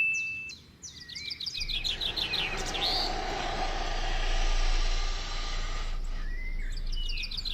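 Birds chirping in quick repeated trills and short whistles, over a steady rushing noise that swells in about two seconds in and fades away near six seconds.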